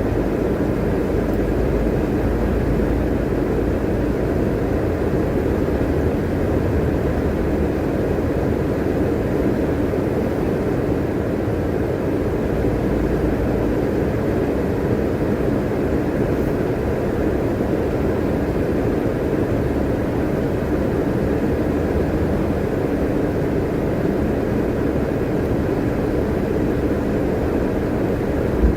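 Steady engine and road noise heard inside a bus while it is being driven, with a low rumble that holds level. There is one brief knock near the end.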